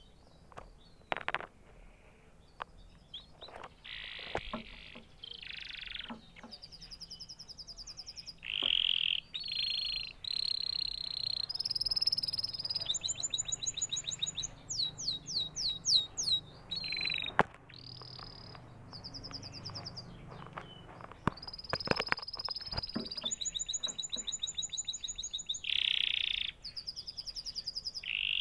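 Canary singing: a long song of fast trills and rapid repeated high notes, broken up by short buzzy phrases. It starts about four seconds in, after a few faint clicks.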